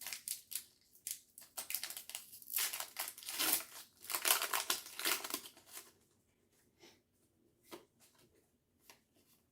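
Foil Pokémon booster pack wrapper crinkling and tearing as it is opened, for about six seconds, then a few faint ticks.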